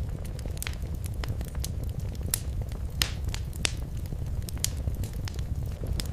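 Wood fire crackling in a fireplace: irregular sharp pops and snaps, a few louder ones near the middle, over a steady low rumble of the flames.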